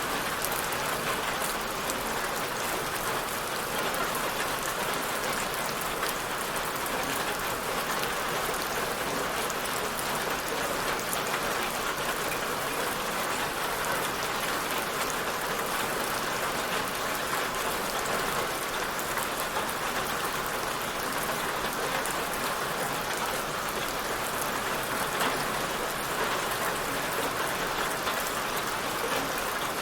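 Steady rain falling and pattering on a surface, an even hiss of drops with no let-up.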